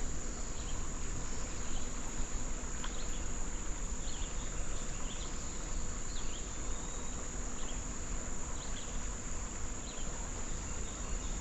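Steady, high-pitched chorus of insects buzzing without a break, with faint short chirps scattered over it.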